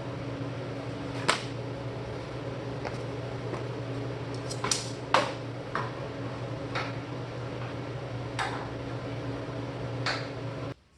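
Steady machine hum with a low drone, broken by several short sharp taps or clicks, that cuts off suddenly near the end.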